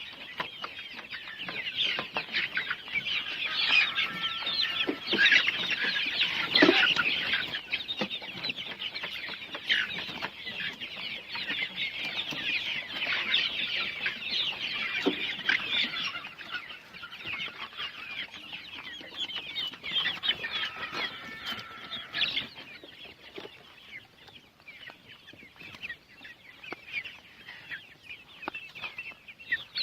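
A flock of young Golden Misri chickens, about 65 days old, clucking and cheeping in many overlapping high calls. The calling is busiest through the first two-thirds and thins out after about twenty-three seconds.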